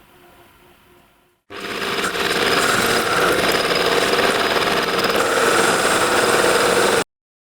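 A power tool working loudly, starting about a second and a half in and cutting off suddenly near the end.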